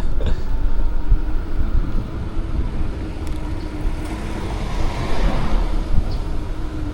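Wind buffeting the microphone and road rumble from riding a bike, with a steady low hum throughout.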